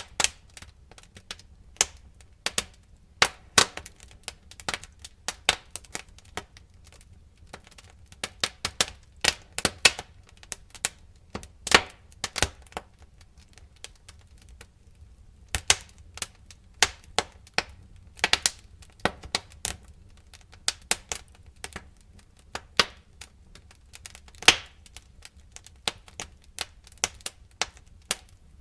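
Fire crackling: irregular sharp pops and snaps, sometimes several in quick succession, over a faint steady low rumble.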